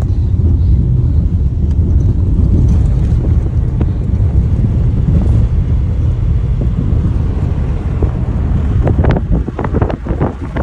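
Wind buffeting the microphone: a loud, steady low rumble, with sharper irregular gusts near the end.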